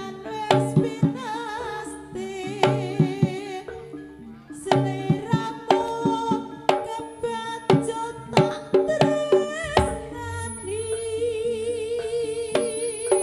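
Live Javanese traditional ensemble music: sharp hand-drum strikes in a quick rhythm under a wavering pitched melody, with one long wavering note held from about ten seconds in.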